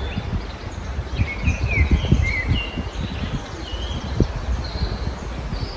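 Several small songbirds chirping and singing in short calls and brief whistled notes, some falling and some rising in pitch, over a steady low rumble.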